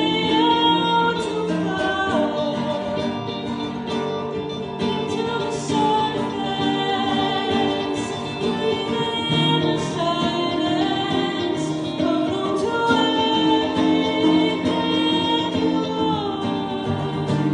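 Live song: a singer holding long, gliding notes over guitar accompaniment.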